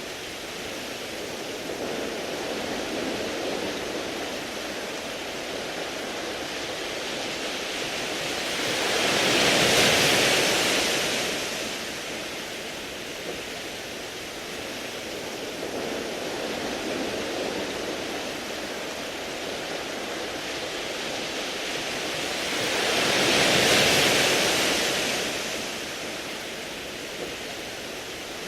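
Sea waves washing in over a beach of smooth round pebbles, a steady hiss of water over stones. It swells and ebbs slowly, with two larger waves surging about ten seconds in and again about fourteen seconds later.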